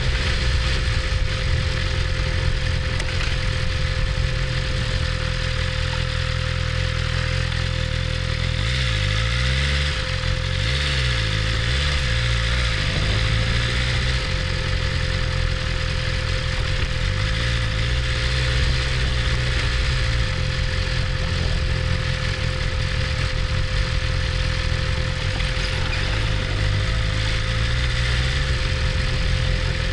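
BMW S1000RR's inline-four engine running at low revs, its pitch dipping and rising a few times about nine to thirteen seconds in and again later, as in slow riding through traffic.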